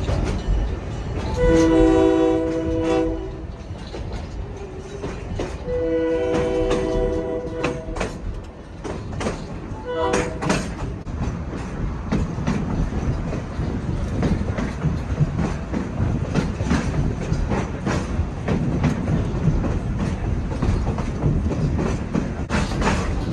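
Passenger train rolling with a steady rumble and clicking of its wheels over the rail joints. The locomotive sounds its multi-note horn in two long blasts, starting about a second and about six seconds in, then a short one about ten seconds in.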